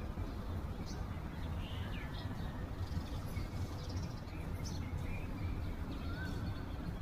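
Several birds chirping and calling in short, scattered notes, over a steady low background rumble.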